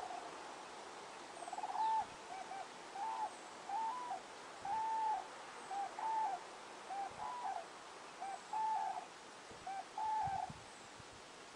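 A bird calling: about a dozen short, clear, arched notes at a fairly low pitch, irregularly spaced, starting about a second and a half in and stopping near the end. Underneath is a steady soft hiss.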